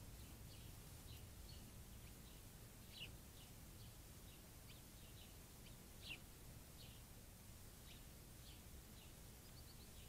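Faint, scattered short bird chirps, several a second at times, with two slightly louder ones about three and six seconds in, over a steady low background rumble.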